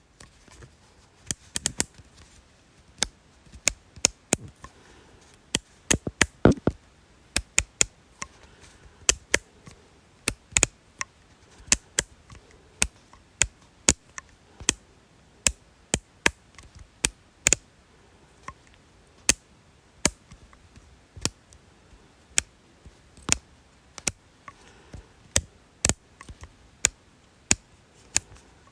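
Sharp, dry clicks of a small object, repeated irregularly about one to two times a second, often in quick pairs or small clusters.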